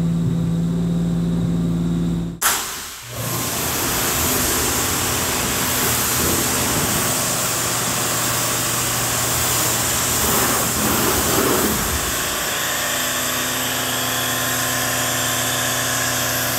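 Buick Grand National's turbocharged 3.8 V6 idling just after a cold start, cut off suddenly after about two seconds. Then a pressure washer sprays water onto the car, a steady hiss over a low hum, which changes about twelve seconds in as the foam cannon is used.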